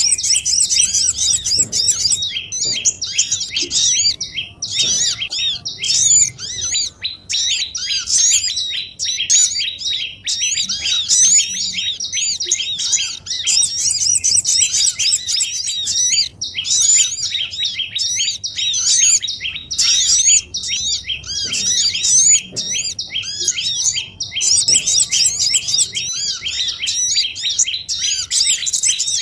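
Bird-lure track of many small birds calling at once, built on sogon calls: a dense, continuous chorus of rapid, high-pitched chirps and twitters overlapping one another.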